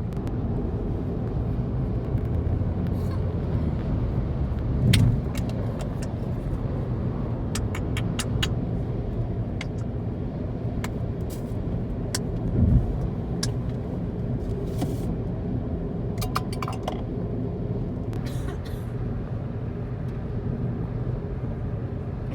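Steady low rumble of a road vehicle in motion, with two louder thumps and scattered small clicks.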